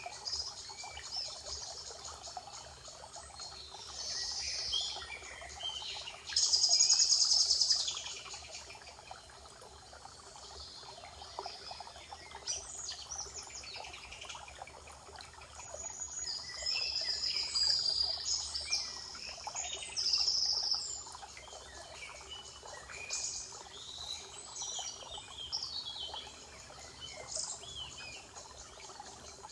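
Several wild birds singing and calling in a spring forest, short chirps and trills overlapping one another. About six and a half seconds in, one loud high trill lasts about a second and a half.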